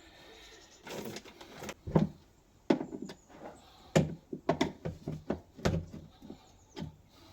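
Irregular knocks, clunks and short scrapes from hands and tools working a bolt into a Land Rover Defender's rear seat box mounting.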